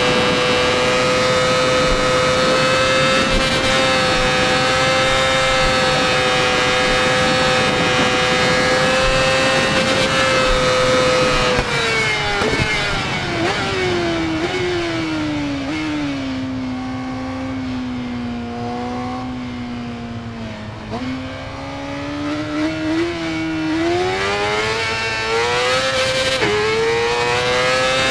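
Yamaha R6's inline-four engine through an Akrapovič exhaust, held at a high, steady pitch for about eleven seconds. It then drops in several steps to a low pitch for a few seconds and climbs back up in steps near the end.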